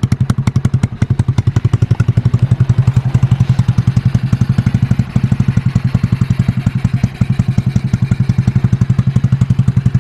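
Ice Bear 125cc motorcycle's single-cylinder four-stroke engine idling steadily with an even, rapid run of exhaust pulses, running again after a tune-up: new spark plug, cleaned carburettor, new fuel line.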